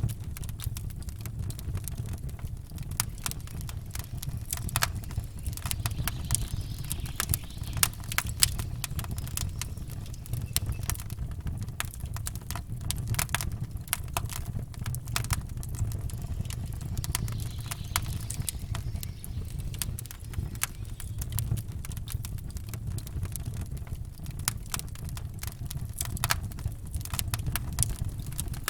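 Campfire wood crackling and popping in irregular sharp snaps, over a steady low rumble.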